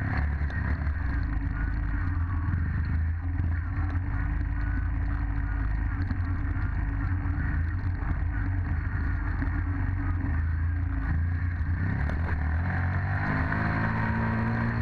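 Dirt bike engine running steadily, then revving up with a rising pitch near the end.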